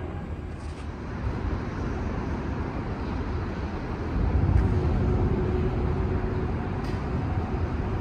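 Street traffic: a steady low rumble, with a vehicle passing close that grows louder about four seconds in.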